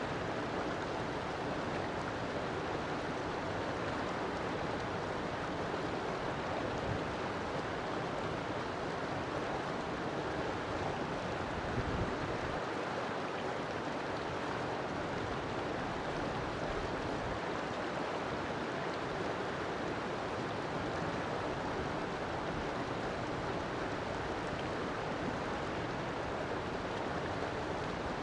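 River water flowing over rocks: a steady, even rush with no let-up, and a brief low thump about twelve seconds in.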